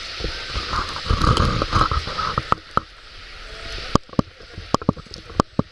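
Wind buffeting the microphone with a low rumble for the first couple of seconds, then firewood in a campfire popping and crackling in sharp, irregular snaps.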